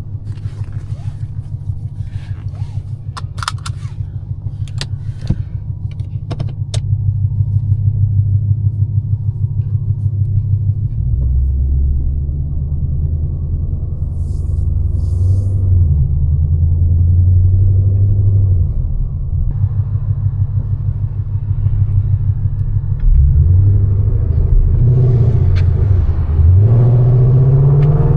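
2019 Mustang GT's 5.0 V8 with catless headers and a straight-piped exhaust, idling with a choppy, lumpy lope from its ghost-cam tune, then pulling away at low revs. Several rises and falls in revs come near the end, and a few sharp clicks sound in the first several seconds.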